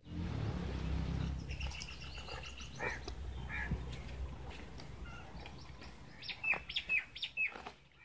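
Small birds chirping, with a run of short, falling chirps near the end, over a low rumble during the first few seconds.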